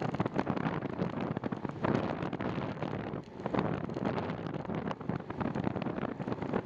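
Wind buffeting the microphone of a camera on a moving bicycle, a steady gusty rumble with a brief lull about three seconds in.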